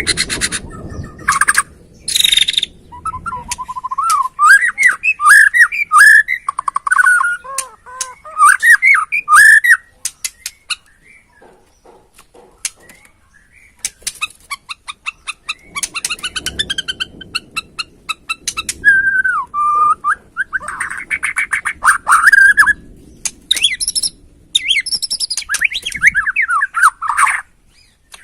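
A white-rumped shama (Bornean murai batu) singing: loud, varied whistled phrases that slide up and down, broken by fast runs of sharp rattling clicks. There is a pause of a few seconds midway.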